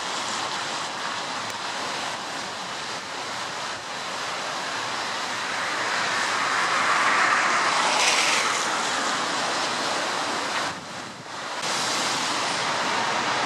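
Road traffic: a steady rush of tyre and engine noise, swelling as a vehicle passes close about seven to eight seconds in, with a brief drop about eleven seconds in.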